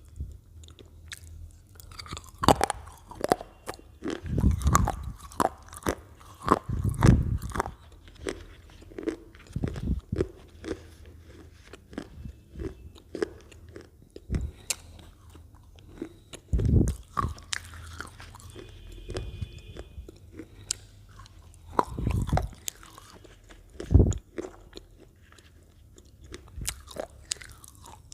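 Lay's potato chips being bitten and crunched close to the microphone: irregular bursts of sharp crunching every few seconds, with quieter chewing in between.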